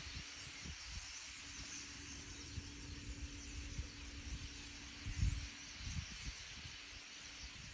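Faint hissing chatter of a large, distant flock of birds, with low gusts of wind buffeting the microphone, strongest about five seconds in.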